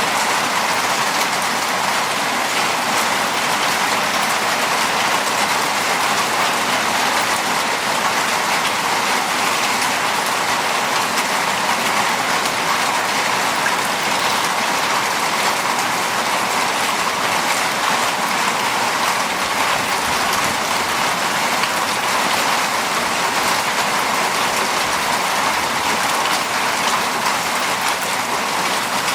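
Heavy monsoon rain pouring down steadily: a dense, even hiss that never lets up.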